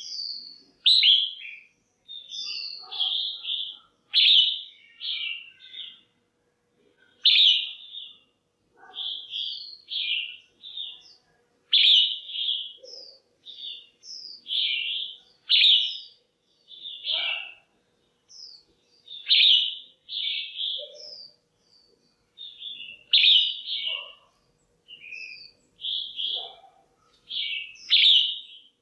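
Red-whiskered bulbul calling: short phrases of bright chirping notes repeated every second or two with brief pauses between them. The uploader presents it as a female's call, used to stir up males or to pair birds.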